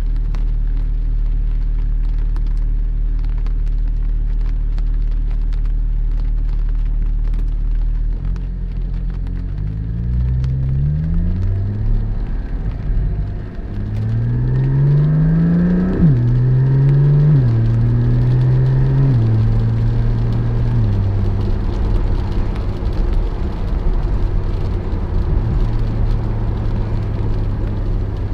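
Porsche 718 Spyder's flat-six engine running steadily at low revs, then about eight seconds in it pulls away, revs rising and dropping at each of three upshifts. After that the pitch steps down a few more times and settles into a steady cruise.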